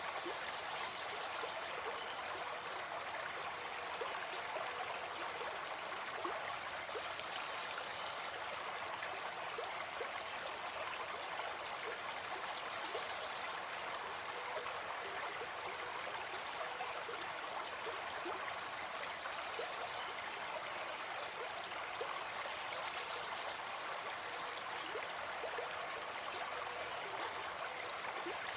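Gentle forest stream flowing steadily: a continuous, even rush of running water.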